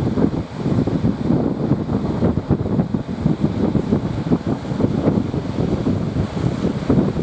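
Strong wind buffeting the microphone: an uneven, fluttering low rumble that drowns out everything else.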